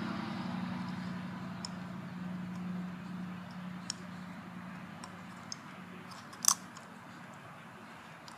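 Hands working a material over the teeth, giving a few short sharp clicks and crinkles, the loudest about six and a half seconds in. Under them a low steady hum fades away.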